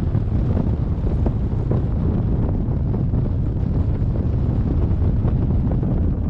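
Steady wind rushing over the microphone of a camera on a hang glider in flight, a low, even rumble of airflow.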